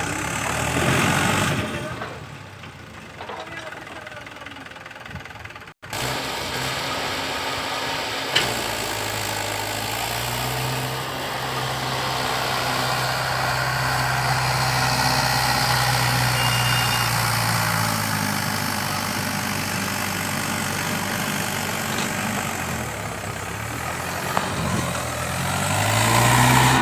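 Mahindra tractor's diesel engine running, its pitch rising about ten seconds in, holding, dropping back near eighteen seconds, and climbing again near the end.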